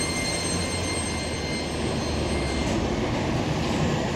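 Keisei 3000 series electric train pulling into the platform and braking to a stop: a steady rumble of wheels on rail, with a faint high whine that fades out about halfway through.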